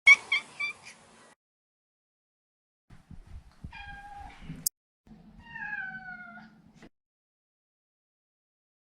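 Maine Coon cat meowing: a quick run of three or four short chirping calls, then two drawn-out meows whose pitch falls slightly.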